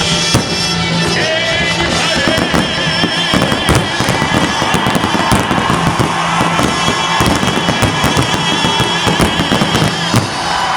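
Fireworks going off in rapid, irregular bangs and crackles over music.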